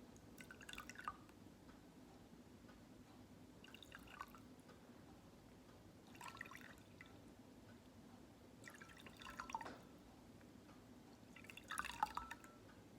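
Water dripping and trickling in five short, faint bursts spread about every two and a half seconds, over a low steady hum.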